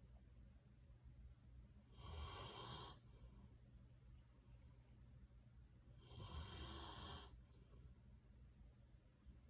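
Bernese mountain dog snoring faintly: two snores about four seconds apart, each lasting about a second.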